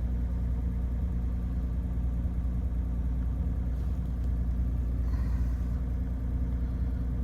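BMW 528e's 2.7-litre straight-six idling steadily, running smoothly.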